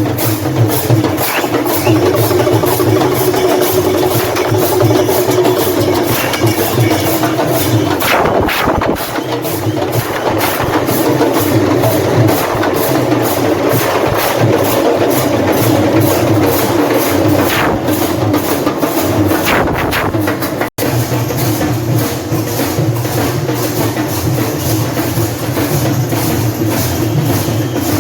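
Loud procession percussion: drums beaten in a fast, steady rhythm, with a sudden momentary gap about three-quarters of the way through.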